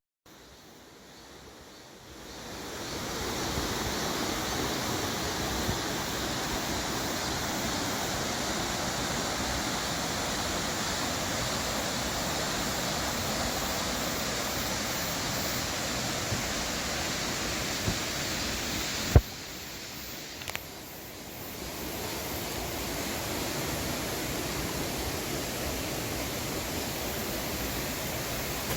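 Mountain stream rushing over rocks, a steady even roar of water that fades in over the first three seconds. About two-thirds of the way through there is a sharp click and the water drops quieter for a couple of seconds before coming back up.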